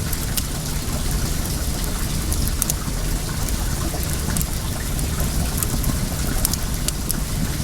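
Well water running steadily, with scattered sharp pops and crackles from a burning wood fire.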